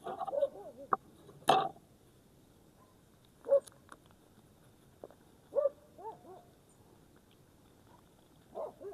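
An animal calling in short yelps whose pitch rises and falls, about six calls spread unevenly, the loudest and sharpest about one and a half seconds in.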